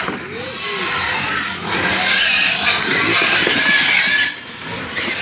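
Pigs squealing in long, harsh squeals, with two short breaks about a second and a half and four seconds in.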